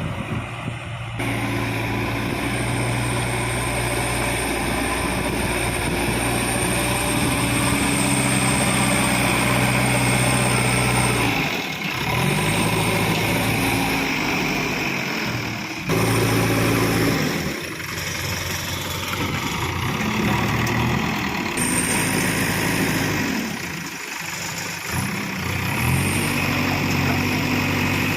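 JCB 3DX backhoe loader's diesel engine running under working load, its engine speed sagging and picking up again every few seconds as the hydraulics dig and lift.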